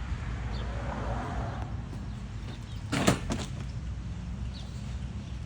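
A short clatter of several quick knocks about three seconds in, over a steady low background rumble.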